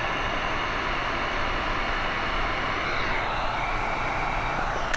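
Heat gun blowing a steady rush of hot air, shrinking heat-shrink tubing over freshly soldered headphone wires; it cuts off suddenly at the end.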